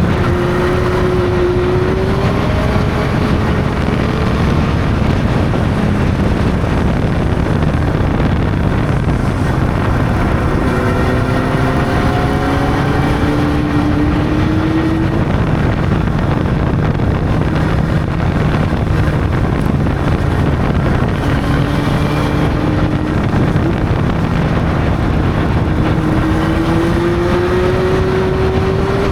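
Honda CB600 motorcycle's inline-four engine under way, its pitch climbing as it pulls and dropping back several times, over a steady rush of wind on the microphone.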